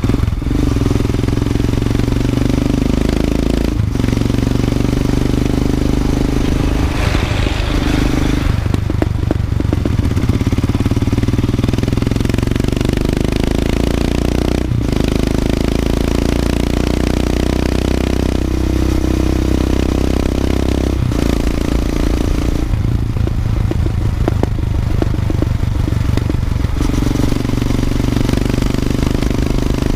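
Royal Enfield Himalayan's 411 cc single-cylinder engine running under way. The engine note dips briefly several times and settles at a new steady pitch after each dip.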